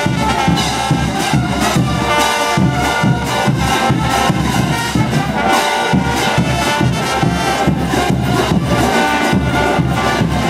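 Brass band playing diablada music: trumpets and trombones carry the melody over a steady, even drum beat.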